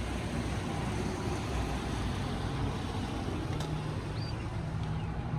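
A vehicle on the road: a steady low rumble of engine and tyre noise.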